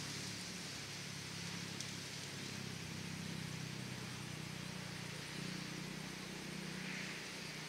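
Steady outdoor ambience: a low rumble under an even hiss, with no single clear event.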